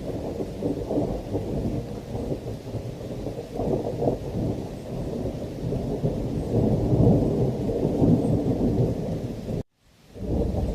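Thunderstorm: thunder rumbling continuously under heavy rain, swelling louder in the second half. Near the end the sound cuts out to silence for a split second, then comes straight back.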